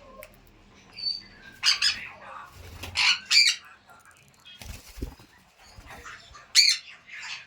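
Pet parrot giving short, sharp squawks in quick pairs, three pairs in all. There are two low thumps about five seconds in.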